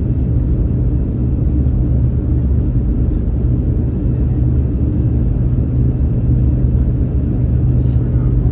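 Cabin noise inside a Boeing 717 airliner during landing: a steady, loud, low rumble with a few constant low hums.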